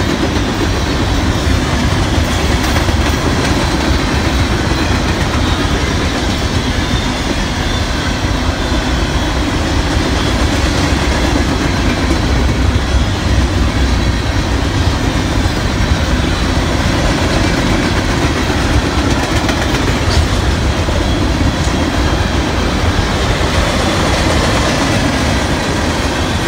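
Covered hopper cars of a long freight train rolling past close by: a steady, loud rumble of steel wheels on the rails.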